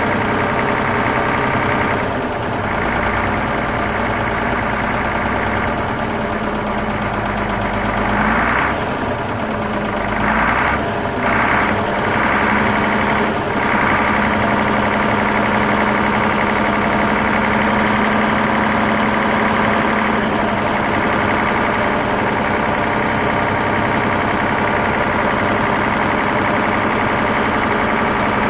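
Leyland Panther's flat-six diesel engine idling steadily after a cold start, with a few brief changes in its note about a third of the way in.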